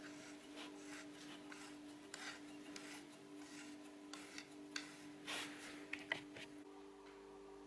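Faint scraping and a few light clicks and knocks of hands handling a laser level and bricks, the loudest a little past halfway, over a faint steady hum.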